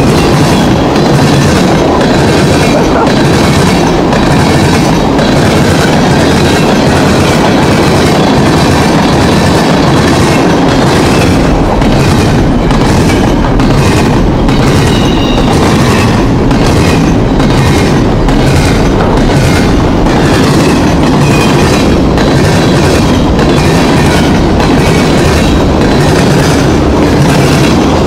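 Railroad cars of a passing train rolling by close at hand, the wheels clicking over the rail joints in a steady repeating clickety-clack over a continuous rumble.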